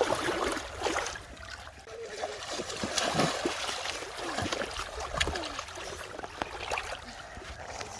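Shallow muddy water splashing and trickling in small, irregular splashes, as when hands search through it.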